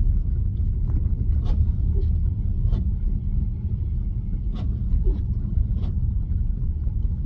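Steady low rumble of tyres and road from an electric Tesla driving slowly on a snow-covered road, with no engine note. About eight irregular sharp ticks are scattered through it.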